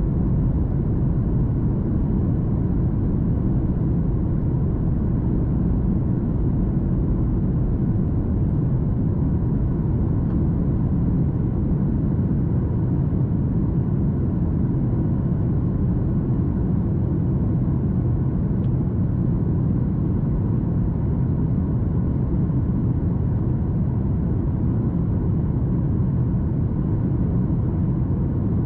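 Steady low rumble inside the cabin of a Boeing 737 MAX 8 airliner, with a faint steady hum above it and no change in level.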